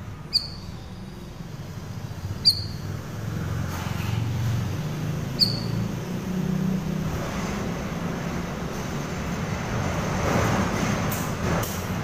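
Cucak rawis giving three short, sharp high chirps a couple of seconds apart. Under them runs a steady background rumble of vehicles that grows louder near the end.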